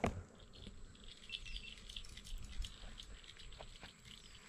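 Quiet riverside ambience: small birds chirping and twittering in the trees, with a couple of short falling whistles. A single soft knock right at the start.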